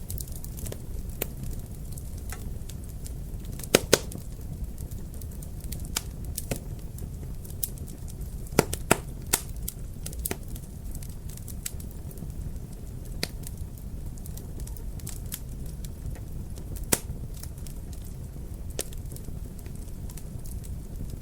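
Wood fire crackling in a fireplace: a steady low rumble of burning with irregular sharp pops and snaps, a few louder pops about 4, 9 and 17 seconds in.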